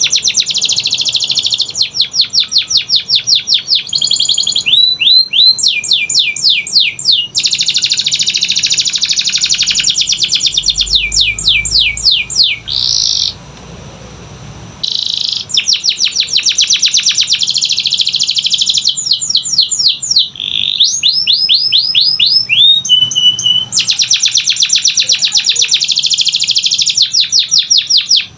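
Canary singing a long, loud song of fast rolling trills and runs of quick repeated rising notes, with a short pause about halfway through.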